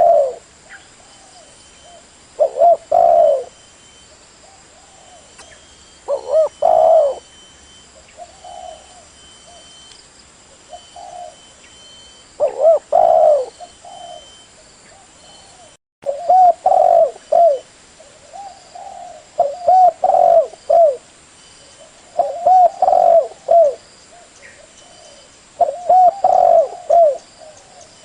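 Spotted dove cooing: repeated low phrases of a few coos each, coming every one to three seconds. This is the call used as a decoy lure for the species.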